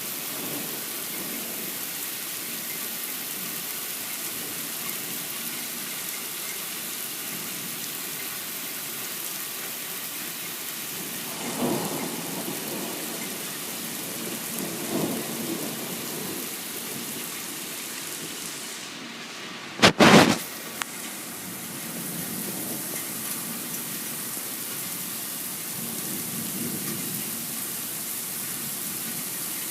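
Steady heavy rain with thunder: two low rumbles about 12 and 15 seconds in, then one sudden, very loud crack about 20 seconds in, typical of a close lightning strike.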